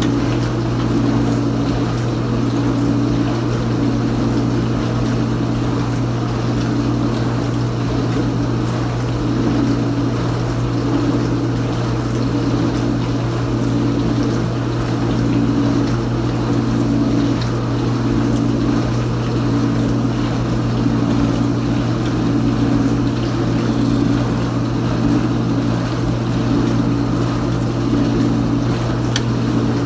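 Kenmore Ultra Wash dishwasher running mid-cycle: the wash pump motor hums steadily while water sprays and rushes inside the tub, a higher hum swelling and fading every second or so.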